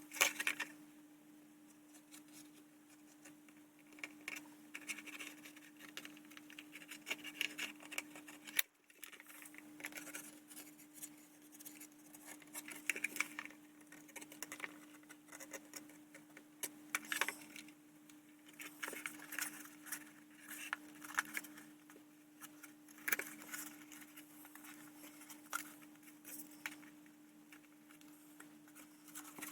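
Faint, scattered small clicks, taps and scrapes of plastic model-kit parts being handled and pressed together for gluing, over a steady low hum.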